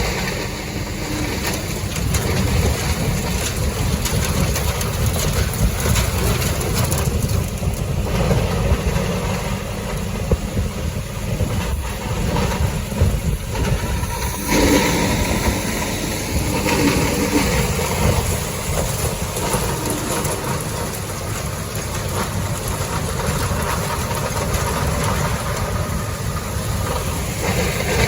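Feed grinder running and grinding ear corn, with an engine running steadily under it: a loud, continuous mechanical noise.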